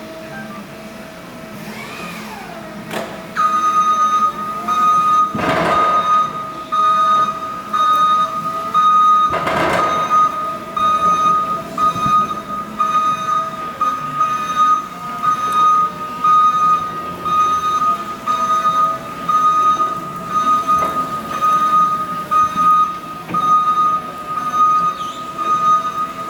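Crown electric reach truck being driven: its warning alarm starts about three seconds in and beeps quickly and steadily at one high pitch, over the lower, wavering whine of the electric drive. Two short rushing noises come in the first ten seconds.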